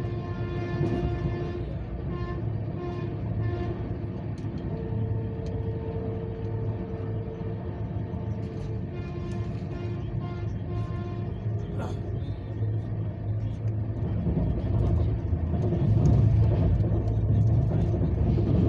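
A vehicle's steady low rumble, growing louder toward the end, with pitched tones coming and going over it.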